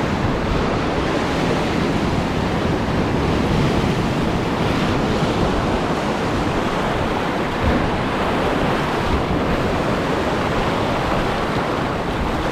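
Steady wash of sea surf on a shallow reef, with wind buffeting the action camera's microphone.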